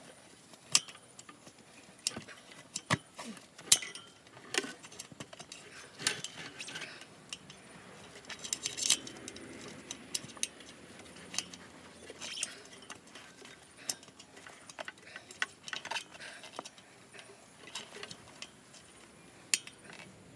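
Hand tools and small metal parts being handled: irregular light metallic clicks and clinks with a few sharper knocks.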